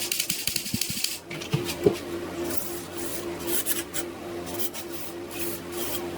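Several separate scraping strokes on metal during hand cleaning of pistol parts, with a few light knocks in the first two seconds. A steady pulsing hum runs underneath.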